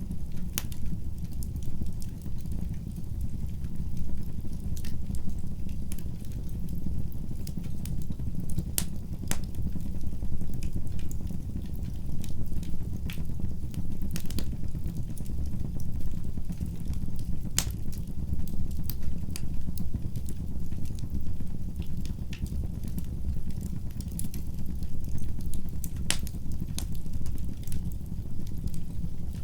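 Wood fire burning in a fireplace: a steady low rumble of flames with scattered sharp crackles and pops from the burning logs, a few of them louder.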